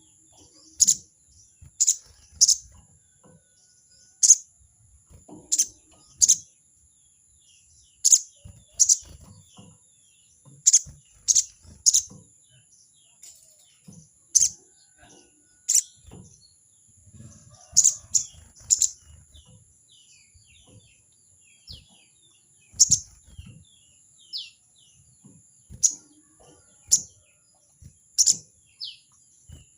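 A sogon bird giving its 'crecet' call, the call it uses to challenge a rival: short, sharp, high notes repeated at irregular intervals about a second or two apart. Softer little chirps come between the loud calls, and a steady high-pitched tone runs underneath.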